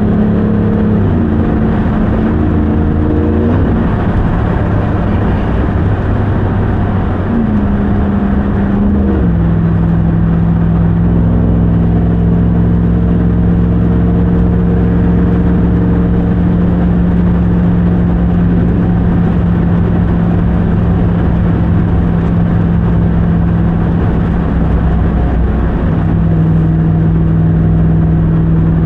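Supercharged 6.2-litre Hemi V8 of a 2021 Ram 1500 TRX on the move, its pitch stepping down a few times in the first several seconds as it shifts up through the gears, then holding a steady cruise, with a slight rise near the end.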